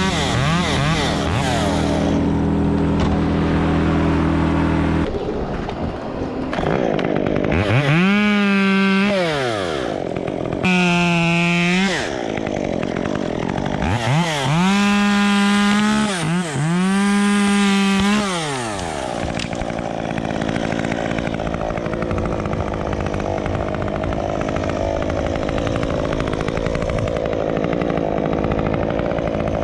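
Two-stroke chainsaw revved to full throttle four times between about 7 and 19 seconds in, the pitch climbing and falling back with each rev, as in cutting wood. An engine runs at a steady pitch before the revs, and a steadier running sound follows them.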